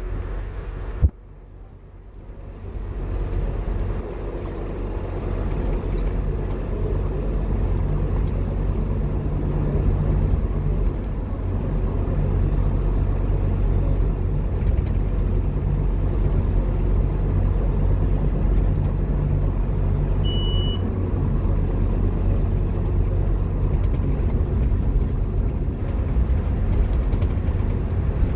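Onboard a Scania K230UB Omnilink bus: the diesel engine and drivetrain build up from a lull about two to three seconds in and then run steadily under load as the bus drives, a low drone with road rumble. A single click about a second in and a short high beep about two-thirds of the way through.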